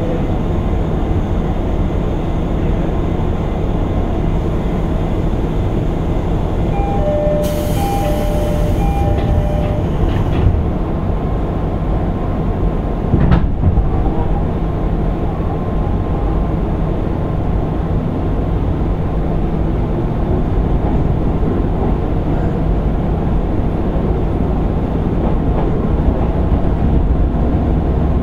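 Interior running noise of a JR East 205 series 600-subseries electric train's motor car: a steady rumble of wheels on rail and running gear as the train runs at speed. About eight seconds in comes a brief ringing of three short two-note rings, and a sharp knock follows a few seconds later.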